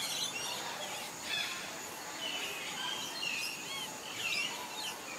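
Forest ambience: many birds chirping and whistling in short calls, over a steady background hiss.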